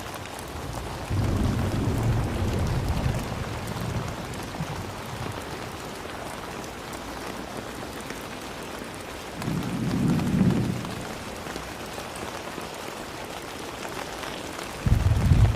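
Steady rain falling, with low rumbles of thunder three times: one starting about a second in, one around ten seconds in, and one breaking out sharply near the end.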